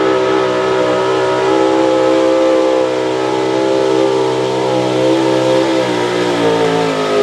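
Pro Stock 4x4 pulling truck's engine running hard at high revs, a steady high-pitched howl whose pitch sags slowly over the last couple of seconds as the engine bogs down under load.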